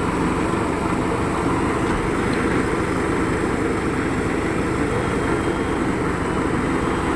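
Diesel engines of a backhoe loader and a tractor running steadily, a continuous drone with no revving or breaks.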